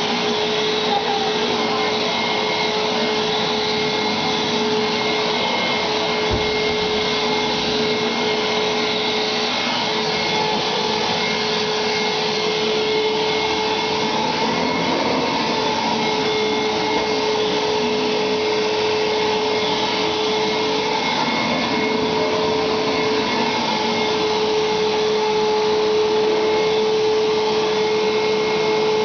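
Vacuum cleaner running steadily at full power, a constant motor tone over the rush of air.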